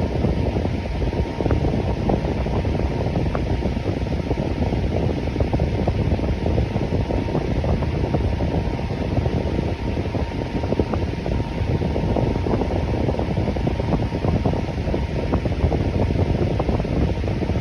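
Electric fan running steadily, a constant rush of air. It has a faint steady hum near the top of the rush and a few light ticks.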